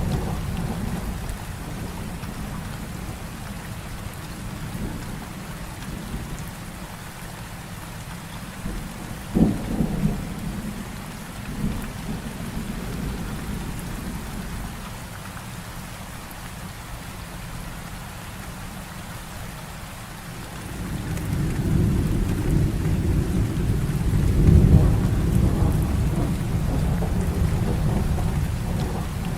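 Heavy rain falling steadily in a thunderstorm. About nine seconds in a sharp thunder crack, with smaller cracks just after; a long low rolling rumble of thunder builds from about two-thirds of the way through and peaks near the end.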